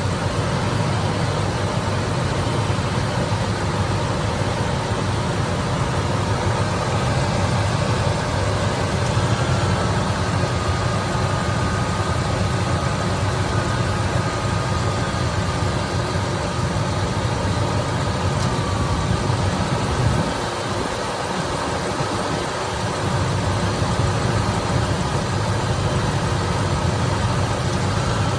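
1998 Ford F-150 pickup's engine idling steadily, a low even rumble that briefly drops away about twenty seconds in.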